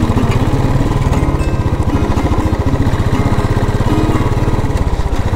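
Royal Enfield Desert Storm's single-cylinder engine running steadily under way, with an even, rapid exhaust thump.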